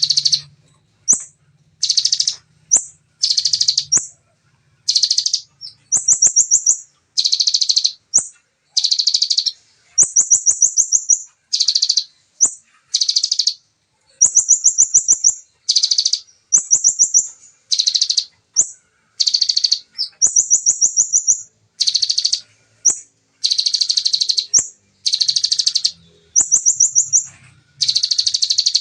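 Bar-winged prinia (ciblek) singing its rapid-fire "nembak" song: phrase after phrase of tight, fast, high trills, each less than a second long with short breaks between them.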